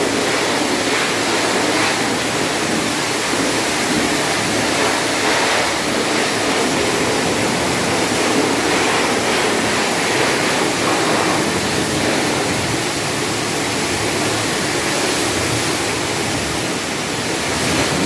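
Steady hiss of a high-pressure car-wash water spray running without a break.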